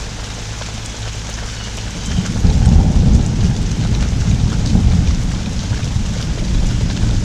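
Heavy rain pouring steadily in a thunderstorm from a hurricane's outer band, with a long roll of thunder swelling up about two seconds in and rumbling on to the end.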